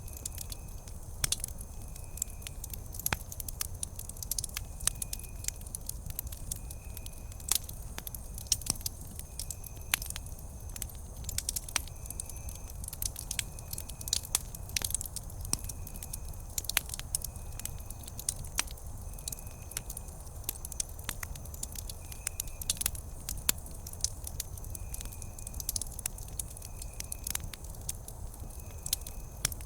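Wood campfire burning and crackling, with irregular sharp pops and snaps over a low rumble. A short high chirp repeats every second or two throughout.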